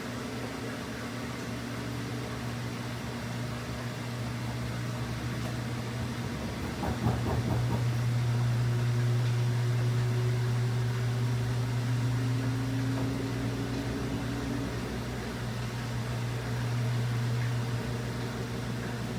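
Washing machine running with a steady low motor hum and fainter tones above it that drift slowly in pitch. About seven seconds in there is a short rattling knock, after which the hum grows louder.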